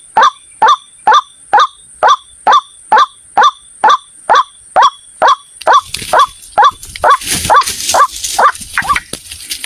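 White-breasted waterhen 'ruak' calls, short sharp notes repeated at an even pace of about two a second, used as a lure call for trapping. A rustling noise joins about six seconds in and fades again near the end, over a steady high-pitched whine.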